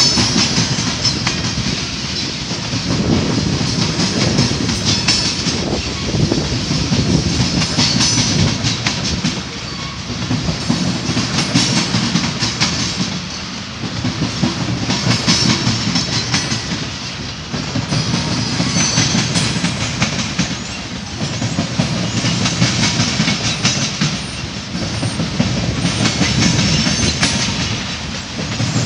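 Freight train of covered hopper cars rolling past close by: a continuous rumble of steel wheels on rail, with clicking as the wheels cross rail joints. The sound swells and eases every few seconds.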